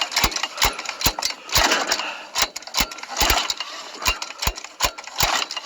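Small lawn tractor engine being cranked with its recoil pull-starter, giving sharp pops at irregular intervals as it fires now and then without catching: a hard-starting engine that won't keep running.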